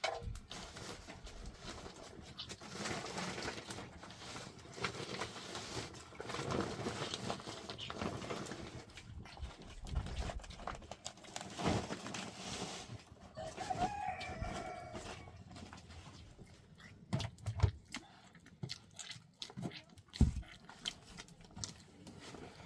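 A rooster crows once, about two-thirds of the way through, over rustling and scattered knocks.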